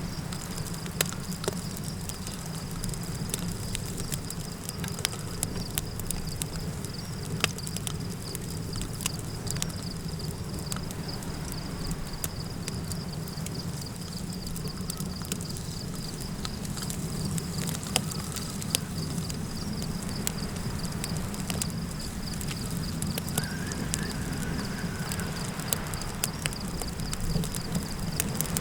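Campfire crackling with frequent sharp pops and snaps over a steady low rumble of flames and wind. A continuous high insect trill runs underneath, like crickets. A faint wavering call sounds briefly near the end.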